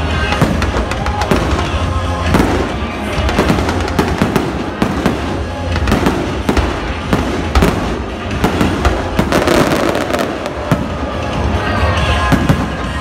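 Fireworks going off in many irregular bangs and crackles, over loud music with a heavy bass.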